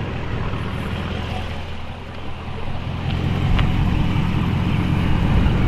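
Dodge Challenger Scat Pack's V8 running at low speed as the car is manoeuvred, a steady low rumble that grows louder about three seconds in.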